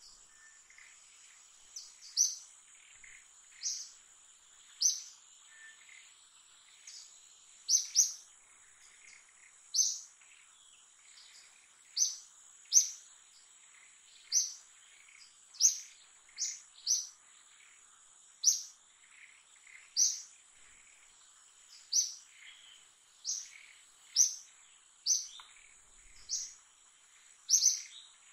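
A bird repeats short, sharp, high chirps, about one a second, over a steady high-pitched insect drone.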